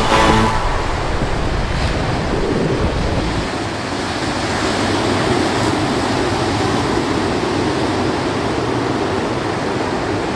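Ocean surf washing steadily on a shorebreak, with wind, after background music cuts off about half a second in.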